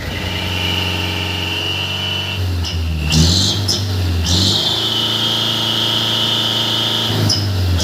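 Diesel dump truck engine held at raised revs through a 'cung' exhaust in the Takalar style, a steady loud tone, with a brief change in revs about three seconds in and again near the end.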